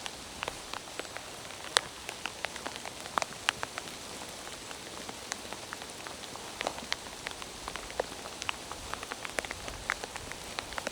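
Steady rain hiss with many sharp, irregular drops ticking close by.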